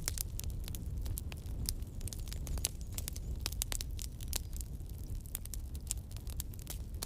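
Campfire burning: wood crackling with irregular sharp snaps over a steady low rumble.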